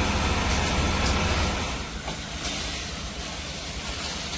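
Loud, steady rumbling noise with a heavy low end and hiss, easing a little about two seconds in.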